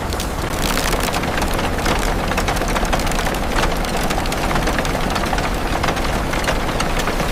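Heavy machinery running: a steady engine rumble under a dense, continuous crackling and snapping.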